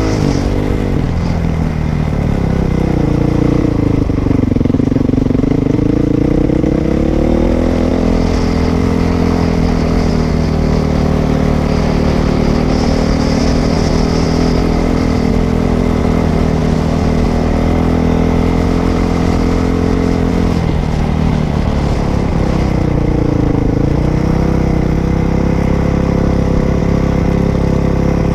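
Dirt bike engine running while being ridden, its pitch dipping and climbing back twice as the throttle is eased off and opened again.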